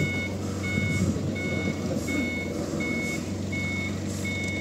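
Vehicle reversing alarm beeping evenly, about one and a half beeps a second, over the steady hum of a running engine.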